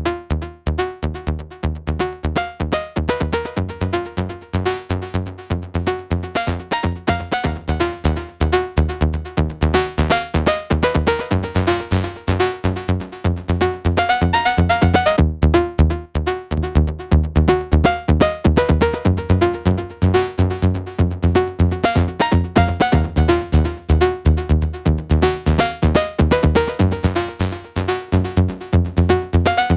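Electronic music demo of software synthesizers with a fast, steady pulsing rhythm and deep bass, played back through an SSL Fusion analog colour processor to add saturation, warmth and width. It gets a little louder in the second half.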